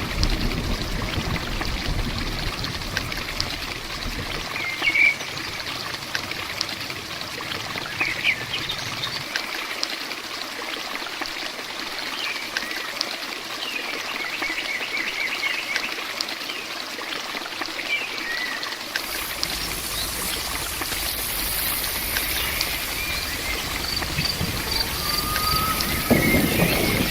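Steady rain with water trickling and running, an even hiss, with a few short bird chirps scattered through it.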